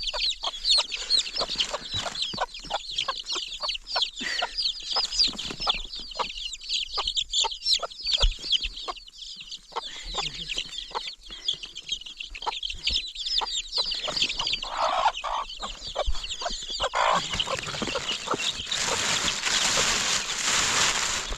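Birds calling: a dense run of quick, high chirps with clucking, and a broad rushing noise over the last few seconds.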